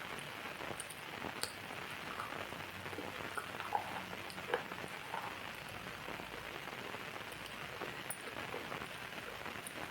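Steady rain falling, an even hiss with scattered single drops standing out.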